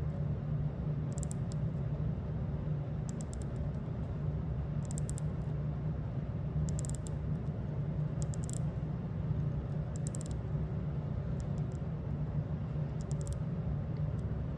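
Bidirectional bezel with an aluminium insert on a Tudor GMT watch, turned by hand and ratcheting in about eight short runs of faint, crisp clicks a second or two apart, over a steady low hum. The owner judges its click sound poor.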